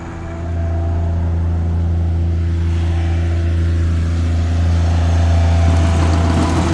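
A nearby motor vehicle's engine running steadily with a low hum, growing louder about half a second in, with a rushing noise building near the end.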